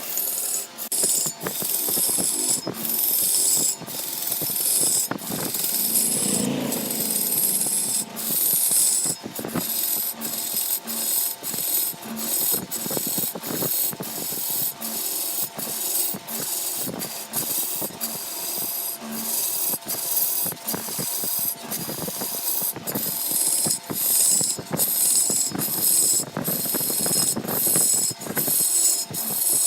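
A tool scraping and rasping against wood in quick repeated strokes, the hissing scrape breaking off for an instant about twice a second.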